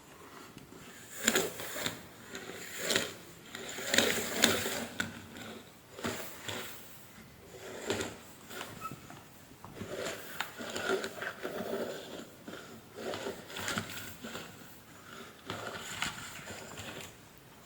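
Vacuum cleaner parts being handled and fitted together by hand during reassembly: irregular knocks, clicks and scrapes, loudest over the first few seconds.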